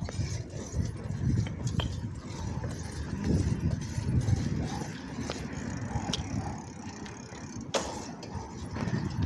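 Bicycle ride noise: wind rumbling on the microphone with scattered clicks and rattles from the bike, one sharp knock about three-quarters of the way through.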